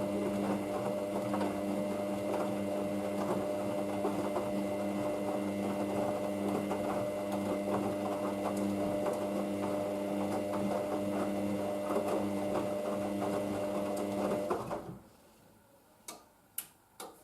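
Hoover DYN9144D3X washing machine running mid-cycle: a steady motor whine with a rattling clatter as the drum turns. It stops abruptly about fifteen seconds in, and a few faint clicks follow.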